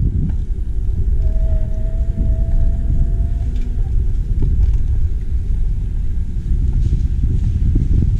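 Steady low rumble of wind and road noise on a GoPro action camera's microphone while riding a bicycle. A faint thin whine is heard for a couple of seconds early in the ride.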